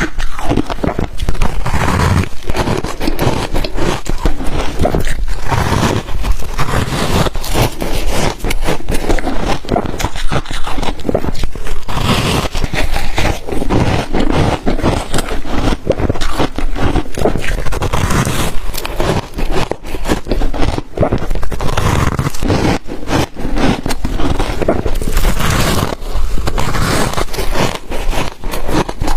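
Ice dusted with matcha and milk powder being bitten and chewed: a loud, dense crackling crunch with repeated harder bites.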